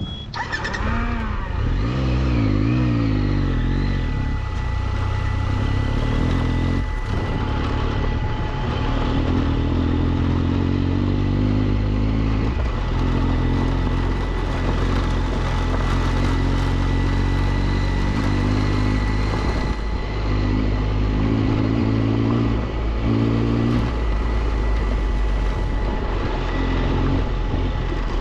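Triumph Tiger 1200's three-cylinder engine running under riding load on a dirt road, its pitch climbing over the first few seconds as it accelerates and then rising and falling with the throttle.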